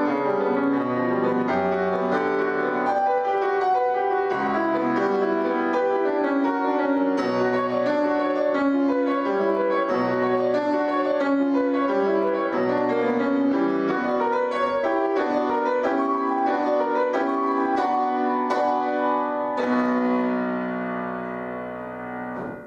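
Piano playing a steady stream of quick notes over lower bass notes, closing about twenty seconds in on a held chord that rings and fades away.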